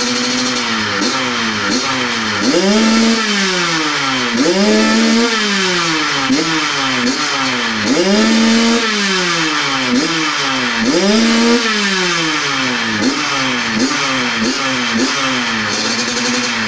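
Two-stroke motorcycle engine with a racing exhaust, revved again and again. Quick throttle blips are mixed with several longer pulls where the pitch climbs high and then falls back.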